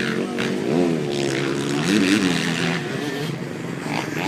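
Yamaha two-stroke dirt bike engine running and being revved twice, its pitch rising and falling about a second in and again about two seconds in.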